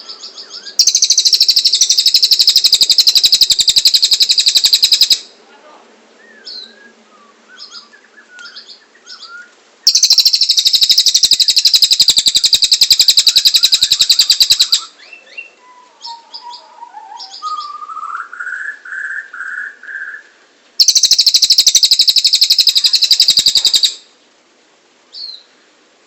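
Cililin songbird singing: three loud, very fast, high trills of about four to five seconds each, with softer scattered chirps and a short run of lower notes between them.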